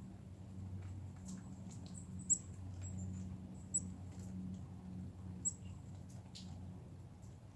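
Short, sharp, high chirps and ticks, the three sharpest about two, four and five and a half seconds in, over a steady low hum.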